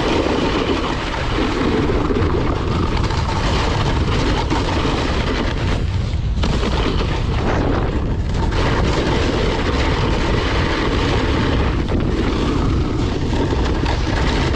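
Strong wind buffeting the camera microphone, a steady loud rumbling roar while snowboarding in a high-wind blizzard.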